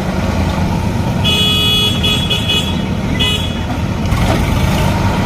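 A heavy vehicle's engine runs steadily, and a vehicle horn sounds about four short blasts between about one and three and a half seconds in.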